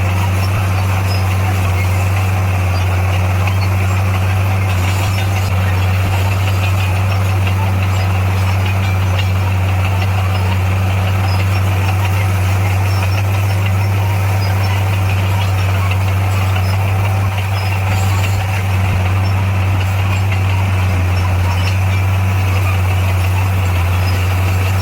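Heavy diesel engine of a motor grader running at a steady speed, a constant low drone that neither rises nor falls.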